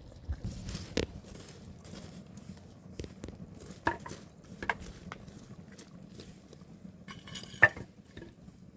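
Cooking utensils clinking and knocking against pots and dishes: a handful of separate clinks, the loudest near the end.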